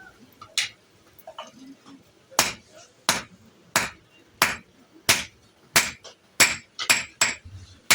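Hammer blows on the steel of a plough share being forged, a few light knocks and then a steady run of sharp ringing strikes, about one and a half a second, from a little over two seconds in.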